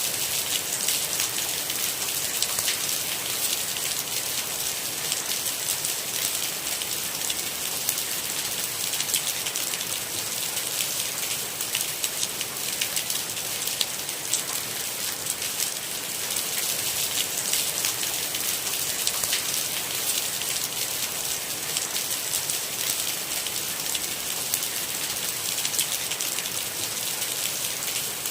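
Steady rain falling, a dense, even patter of many fine drops with a bright hiss and no breaks or thunder.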